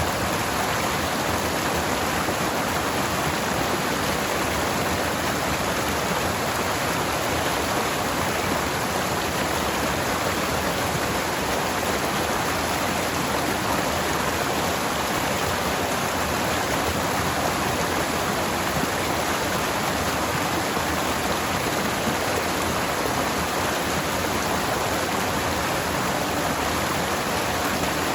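Forest stream running steadily over rocks: an even, unbroken rush of water.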